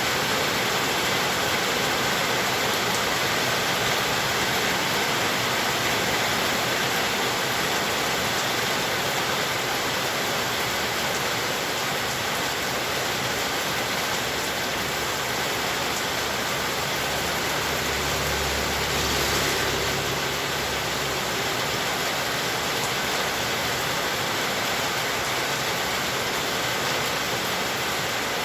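Heavy rain falling steadily, a dense even hiss. About two-thirds of the way through, a low rumble swells for a few seconds and fades.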